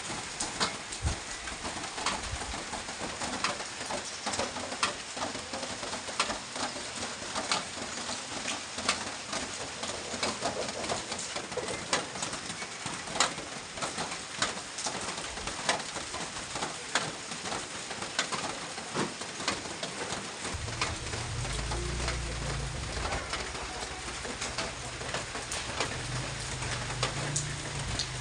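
Heavy rain falling steadily, with many sharp drops and drips hitting a surface. About two-thirds of the way through, a low, uneven sound joins the rain and carries on to the end.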